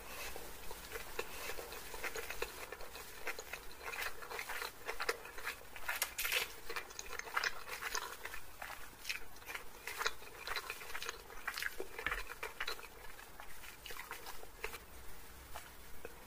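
Close-up chewing of a mouthful of chowmein noodles and chilli chicken: a steady run of irregular wet clicks and crackles from the mouth.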